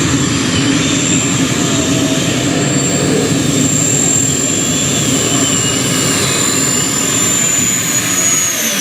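A pulling tractor's engines run loud and steady, with a high whine that slides down in pitch near the end.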